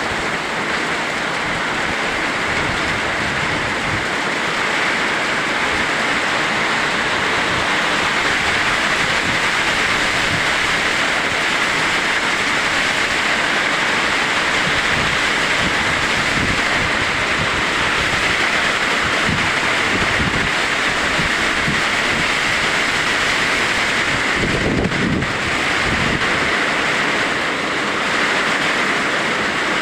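Heavy rain pouring down in a summer thunderstorm, a steady dense hiss. Near the end a brief deeper rush, like a gust of wind, swells up.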